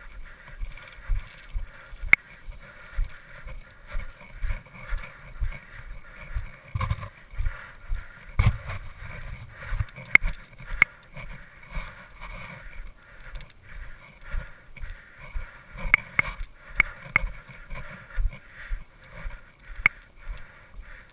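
Footsteps thudding at a steady pace of about two a second, carried through a body-worn camera, with a few sharp clicks scattered through it.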